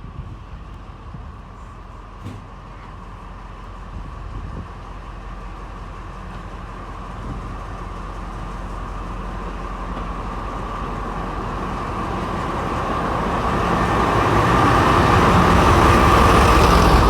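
A train approaching on the line, its running growing steadily louder over the whole stretch and loudest near the end, with a steady high tone over a low rumble.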